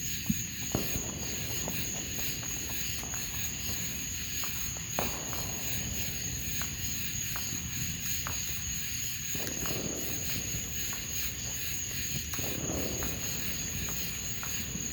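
Crickets chirping in a steady high-pitched drone, with a few short sharp pops scattered through it, the loudest about a third of a second in and another about five seconds in.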